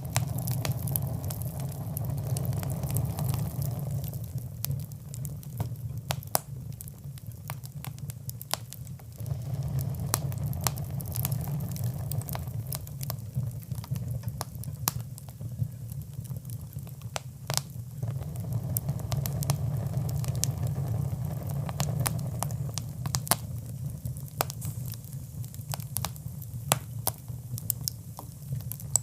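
Fire in a fireplace crackling, with frequent sharp pops over a low rumble of the flames that swells and eases every several seconds.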